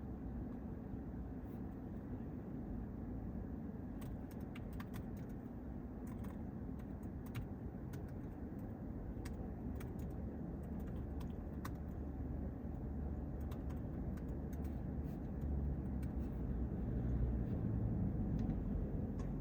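Low steady rumble of a car, swelling briefly near the end as a vehicle passes or draws near, with scattered light clicks over the middle of the stretch.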